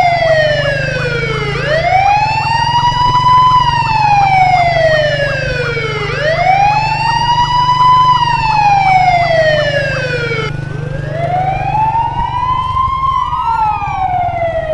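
Electronic police siren wailing, its pitch rising quickly and then falling slowly, once about every four and a half seconds. A second, faster warbling siren tone runs beneath it, over a steady low rumble.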